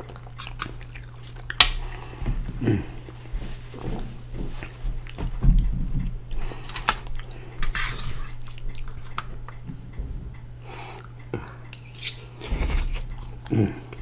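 Close-miked chewing and mouth sounds of a person eating loaded fries, with irregular clicks of a metal fork against a foil-lined tray, over a steady low hum.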